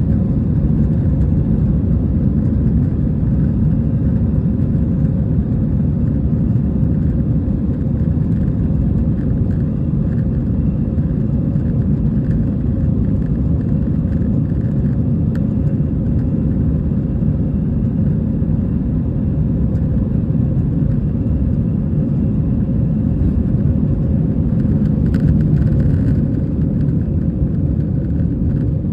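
Steady low rumble of engine and airflow noise inside the cabin of an Airbus A320 airliner in flight.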